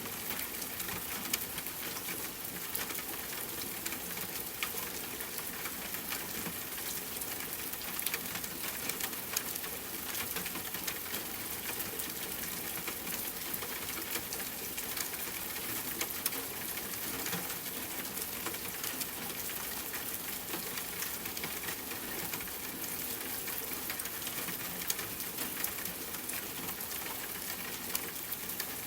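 Steady rain pattering on a tent, with campfire crackling mixed in as scattered small pops and clicks.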